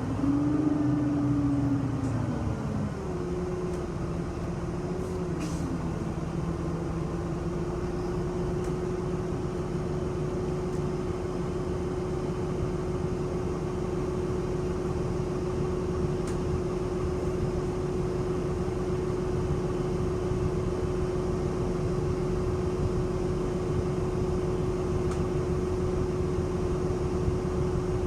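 City bus heard from inside the cabin, its drivetrain running with a low rumble and a steady whine. In the first few seconds the whine rises and falls in pitch as the bus changes speed, then it holds one level tone.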